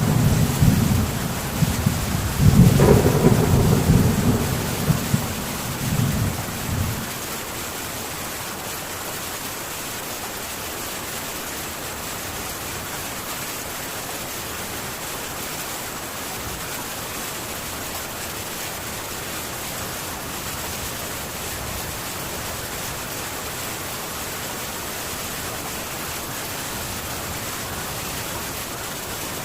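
Thunder rumbling over heavy rain on a metal tin roof; the rumble dies away about seven seconds in, leaving the rain on the roof going steadily.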